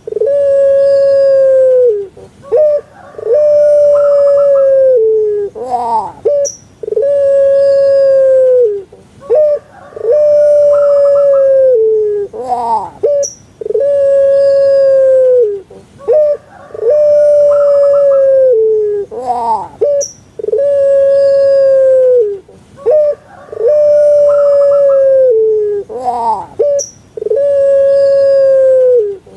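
A puter pelung, the long-voiced ringneck (Barbary) dove, singing its coo over and over, about once every six and a half seconds. Each call opens with a quick run of short rising notes and ends in one long, loud held note of about two seconds that drops away at the end.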